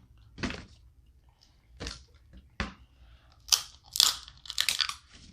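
Snow crab leg shells cracking and snapping, close up: a few separate sharp cracks, then a quick run of them in the last couple of seconds, as the shells are broken open to get the meat out.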